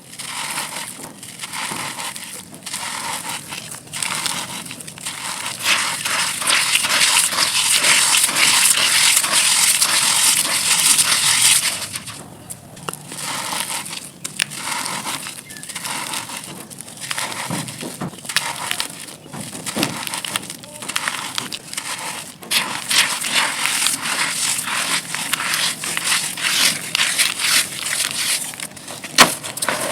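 Dry, gritty pressed red dirt chunks being crushed and crumbling into grit, a dense run of fine crackling crunches. It is loudest for several seconds in the first half, with short pauses before the crunching resumes.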